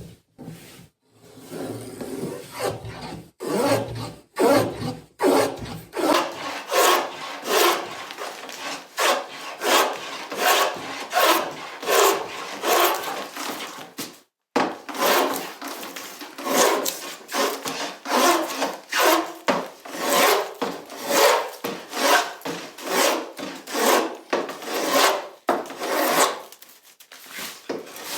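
A hand tool working wood in a rapid back-and-forth rhythm, about two strokes a second, with a brief stop about halfway through.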